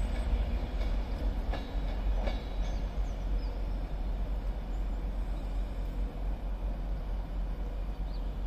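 A train running on the track at a station: a steady rumble with a few sharp clicks from the rails, easing slightly near the end.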